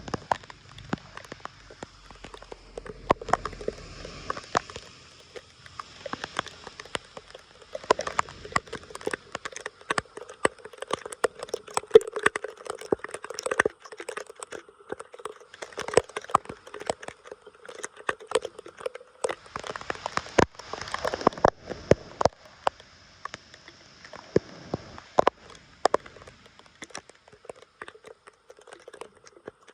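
Water splashing and trickling, with many sharp, irregular clicks and cracks throughout.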